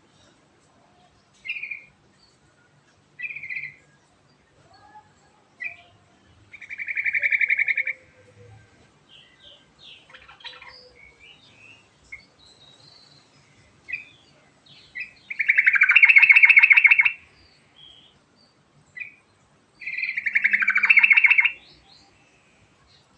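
Yellow-vented bulbul (trucukan) singing: short chirpy notes, then three loud rolling trills. The longest and loudest trill comes about halfway through and lasts about two seconds.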